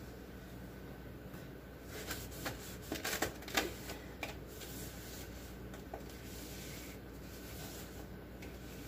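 Handling noises while the inside of a refrigerator is cleared out and its parts taken out: a burst of quick clicks and light rattles about two to four seconds in, then a single softer click, over a steady faint background.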